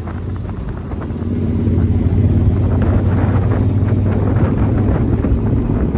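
Motorcycle engine running at a steady pitch, getting louder about a second in, with wind buffeting the microphone.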